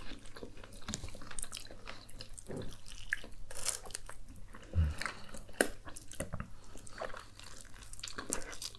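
Close-up eating sounds of two people chewing and biting spiced chicken drumsticks: wet chewing with lip smacks and small clicks scattered throughout.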